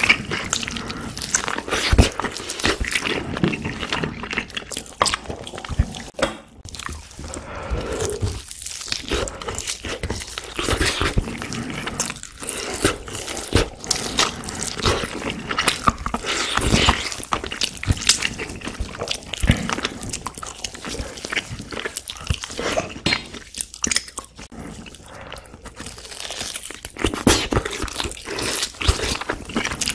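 Close-miked chewing and biting of braised pork back ribs and kimchi, with meat being bitten off the rib bones. A dense, irregular run of mouth clicks and bites, busier and louder near the end.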